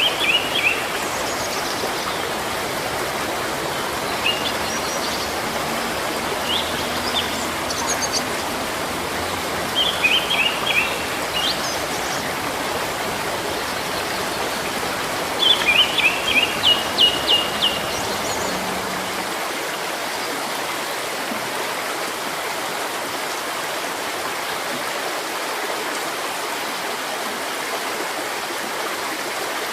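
A stream of running water rushing steadily, with songbirds chirping in short bursts through the first half. The loudest is a quick run of about eight notes; the birds fall silent after that and only the water continues.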